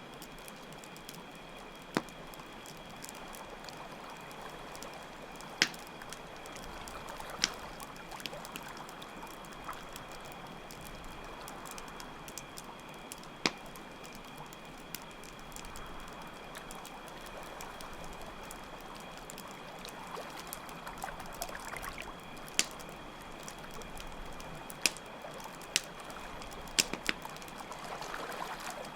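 Layered night ambience: water trickling, crickets chirring steadily, and a campfire crackling with sharp pops every few seconds.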